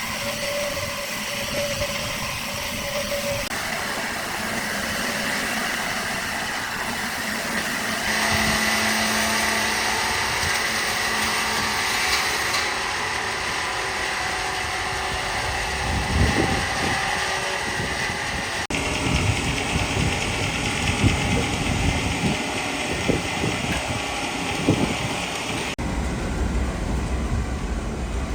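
Heavy machinery running steadily, changing abruptly several times where the footage is cut. From about halfway through, irregular low knocks and thuds sound over it.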